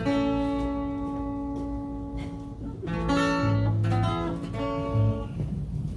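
Acoustic guitar strumming chords, each left to ring for a couple of seconds, with a few low notes underneath about three and a half and five seconds in.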